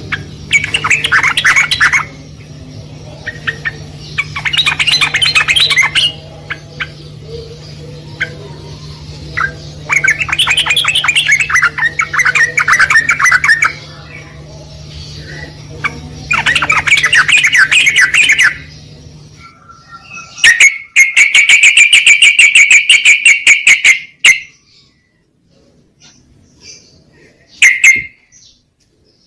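Yellow-vented bulbul (trucukan) song: four bouts of bubbly, warbling phrases of about two seconds each, over a steady low hum. Then a fast rattling trill lasting about three and a half seconds, and a single short call near the end.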